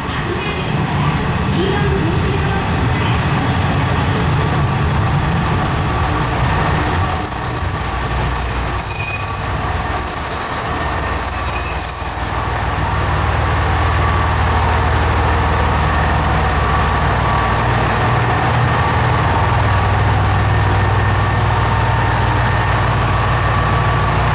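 Train running on rails with a high, steady wheel squeal that stops about halfway through, leaving the steady low rumble of the running train.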